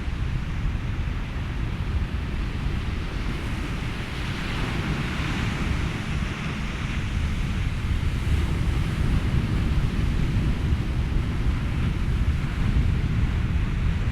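Ocean waves and wind blended with white noise: a steady rushing hiss over a deep rumble, with a wave swelling up about five seconds in.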